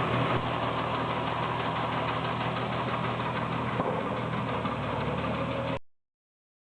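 Tractor engine running steadily while driving a mini round baler, with a dense machinery noise that cuts off suddenly near the end.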